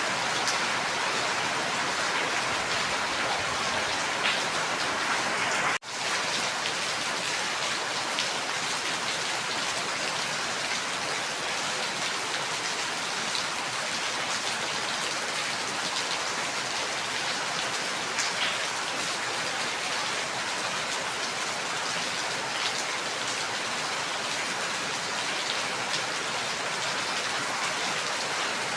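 Steady, dense rain falling, with scattered individual drop ticks; it cuts out for an instant about six seconds in, then resumes.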